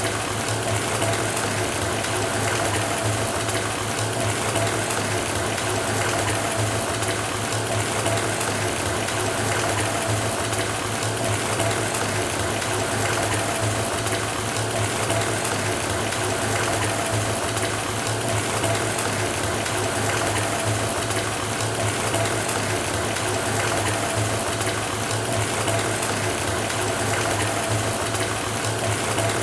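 Bathtub filling from a running tap: water pouring steadily into the tub, an even rushing with a steady low hum under it.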